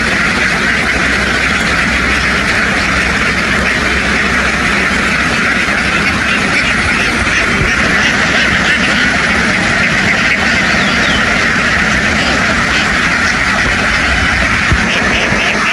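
A large flock of domestic ducks quacking all at once in a dense, steady din.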